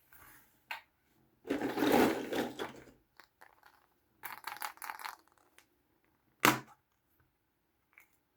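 Hands handling small plastic toys and packaging: a rustle, then a run of crackling clicks, and later one sharp plastic click.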